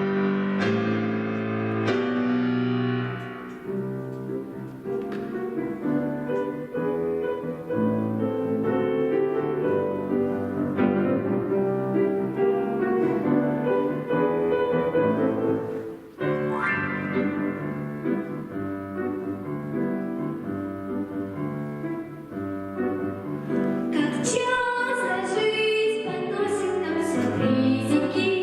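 Piano music played at a steady pace, with a voice, likely female, singing over it in the last few seconds.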